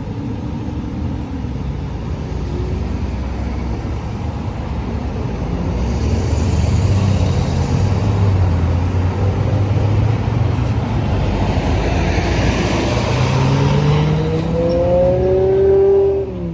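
Road traffic passing close by: a steady rush of tyre and engine noise that swells through the middle as vehicles go past, then a vehicle engine accelerating, its pitch rising, near the end.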